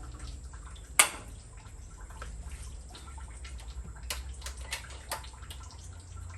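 Engine coolant draining and dripping out of the cooling system with the water pump being removed. A single loud sharp click comes about a second in, and several lighter clicks follow around four to five seconds in.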